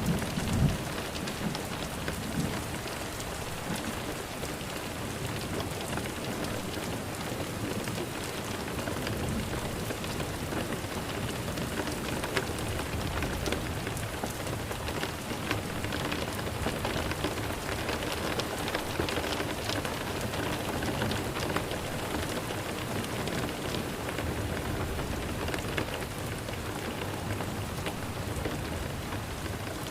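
Steady rain falling on a surface, with a low rumble of thunder right at the start.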